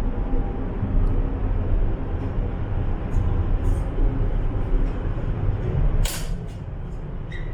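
Steady low rumble of a Fuxing high-speed train running at speed, heard from inside the carriage, with a short hiss about six seconds in.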